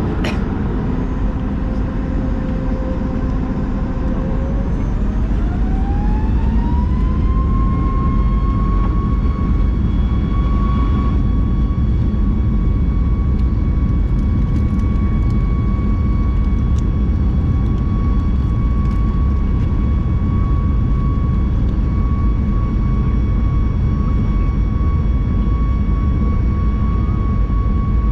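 Boeing 737 MAX 8's CFM LEAP-1B turbofan engines spooling up to takeoff thrust: a whine rising in pitch about four to seven seconds in, then holding steady over a loud, deep rumble for the takeoff run.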